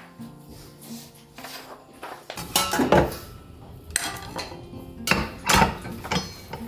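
Kitchenware being handled: several bursts of dishes and utensils clattering, with short pauses between them.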